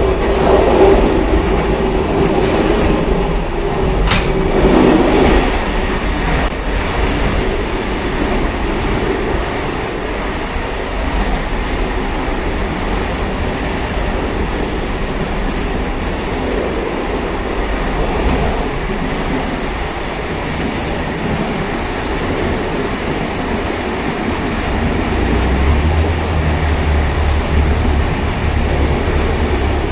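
Railcar running on the rails, a continuous rumble of wheels and running gear. A sharp click about four seconds in, and a deeper low hum joins near the end.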